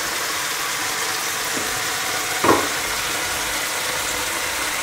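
Meatballs frying in a little vegetable oil in a pan: a steady sizzle, with one short louder sound about halfway through.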